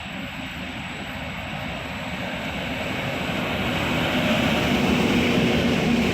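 A train approaching through the station, its running noise growing steadily louder for about four seconds and then holding, with a low steady hum underneath.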